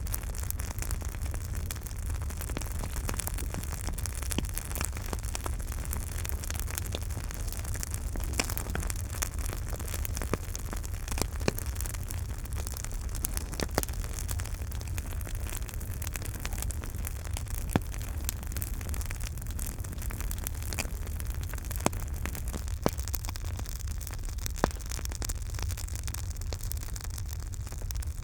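Campfire burning with a low steady rumble of flames and frequent irregular crackles and pops of burning wood, a few louder snaps among them.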